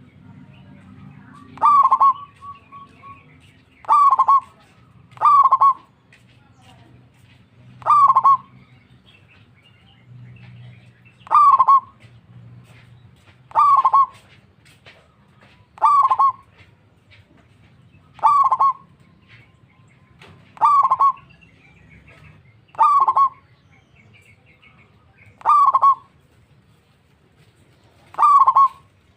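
Zebra dove (perkutut) cooing: short, clipped coo phrases repeated about every two to three seconds, around a dozen in all.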